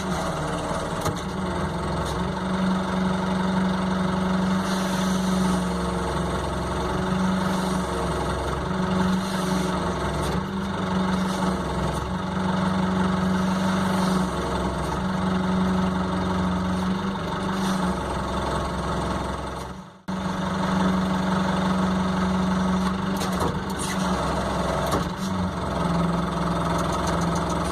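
Telehandler-style boom forklift engine running steadily while it handles a bundle of slabwood, its pitch rising and falling in spells as the load is worked. The sound cuts out briefly about twenty seconds in.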